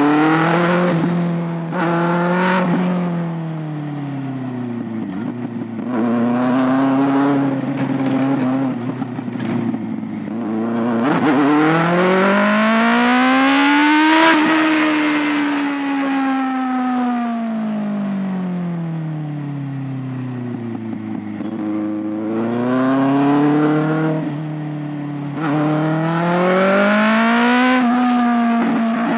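Kawasaki ZX-6R 636's inline-four engine and exhaust under way, the revs rising and falling again and again, with the longest climb about halfway through followed by a slow fall as the bike rolls off.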